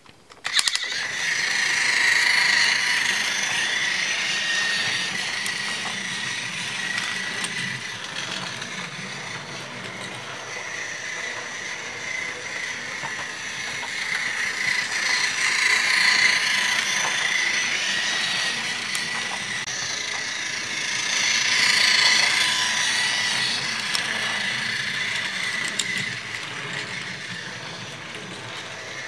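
Battery-powered toy train engine switched on about half a second in, then running on plastic track: a steady high gear whine from its small electric motor with rattle from the wheels and wagons, swelling louder three times as it passes close on the loop.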